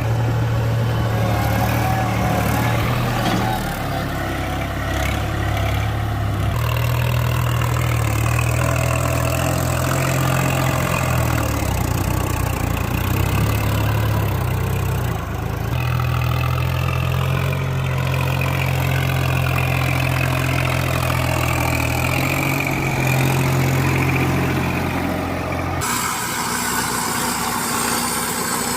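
Tractor engine running steadily in the field, its note changing abruptly several times. Near the end it gives way to a lighter, higher-pitched engine sound.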